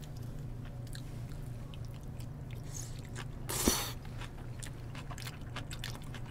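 Quiet chewing and small clicks of chopsticks against a bowl as a person eats, with one louder, short crunchy noise about three and a half seconds in, over a low steady hum.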